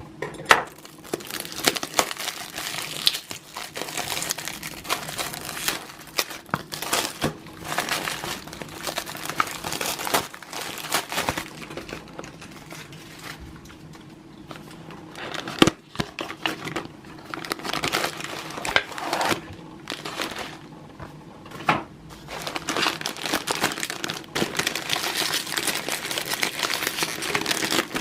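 Crinkly packaging being handled and unwrapped by hand, in irregular crackling bursts with some tearing, a sharp click about halfway through, and denser crinkling near the end.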